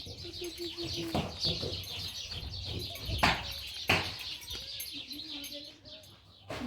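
Birds chirping in many quick high notes, with two sharp knocks a little past the middle.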